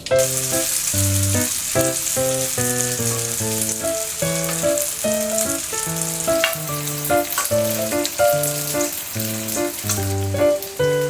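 Food sizzling in a hot frying pan, a dense hiss that cuts in suddenly at the start, over background music with a bouncy melody of short notes.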